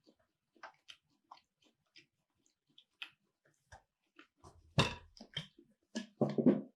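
Close-miked chewing: soft wet mouth clicks and smacks, with a louder knock about two thirds of the way in and a fuller burst of mouth noise near the end.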